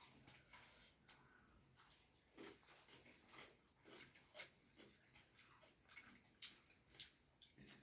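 Faint eating sounds: soft, irregular chewing and mouth clicks of someone eating chicken soup with dhido.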